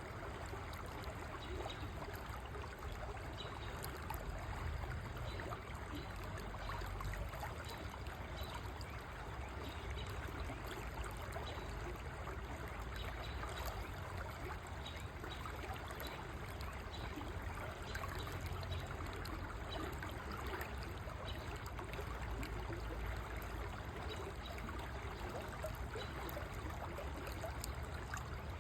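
River water flowing in a steady, continuous rush, with a low rumble beneath it.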